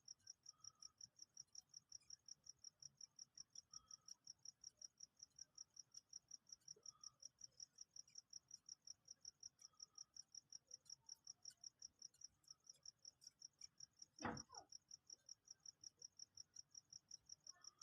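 A cricket chirping steadily and faintly, a high pulse repeating about five times a second. There is a single soft thump about 14 seconds in.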